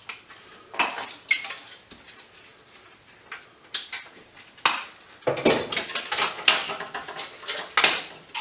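Metal scrap being handled: sharp clinks and knocks of hard metal pieces and tools, scattered at first and then a busy run of clatter in the second half.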